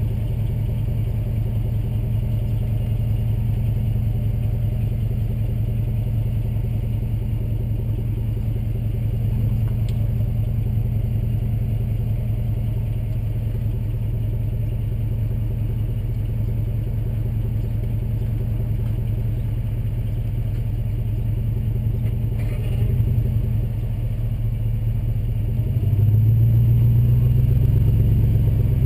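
A 2005 Jeep Grand Cherokee's 5.7L Hemi V8 running steadily through a Borla aftermarket exhaust, with a low rumble. A short rev comes about three-quarters of the way in, and near the end a longer, louder rev is held, then drops back.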